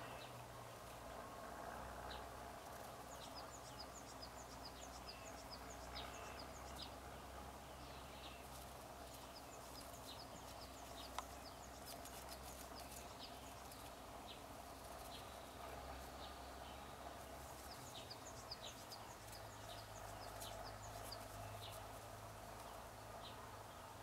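Faint bird chirps, short high notes in quick runs, over a steady low hum of outdoor background noise. One sharp click about eleven seconds in.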